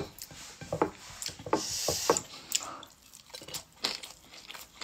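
Close-up chewing and wet mouth clicks as a person eats rice with her fingers, the small irregular smacks and clicks of food being bitten and chewed near the microphone.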